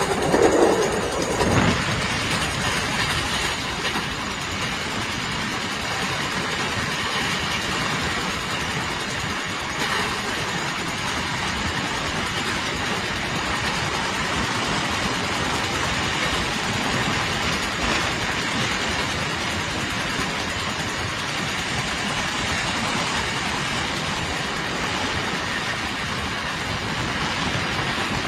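A train running on the rails with a steady rumble, a little louder for the first second or two.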